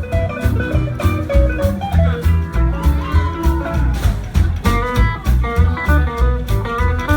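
Live band playing an instrumental break of a boogie song: electric guitar picking a lead over a steady bass and drum beat.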